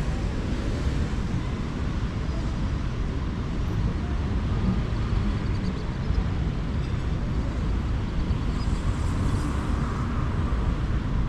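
Steady city road traffic noise, a continuous even wash without distinct horns or passing events.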